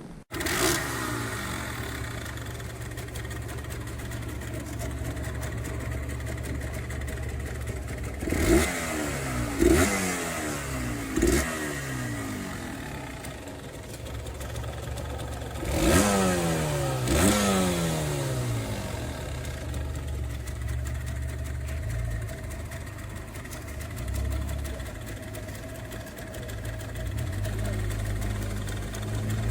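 Honda Monkey Z50J's small four-stroke single-cylinder engine under load on an uphill ride, played back at double speed. Its pitch sweeps up sharply about five times in the middle stretch, as the revs climb again after each gear change, and the engine runs steadily between the sweeps.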